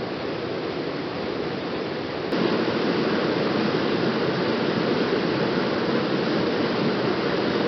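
Waterfall rushing steadily, stepping up louder and fuller about two seconds in.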